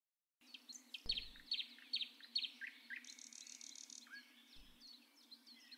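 Small birds chirping faintly: a run of quick repeated chirps about a second in, then a short high rapid trill around three seconds, then scattered single chirps.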